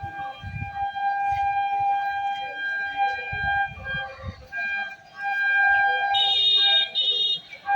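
A long, steady warning horn tone, briefly broken a few times, with a second, higher tone joining in for about a second near the end. Gusts of wind buffet the microphone underneath.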